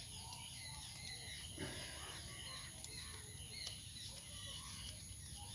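Faint outdoor background with scattered distant bird calls.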